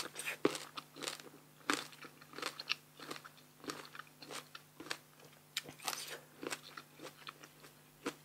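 Close-up crunching of crisp unripe green mango being bitten and chewed: a quick, irregular run of short crisp crunches, about two a second.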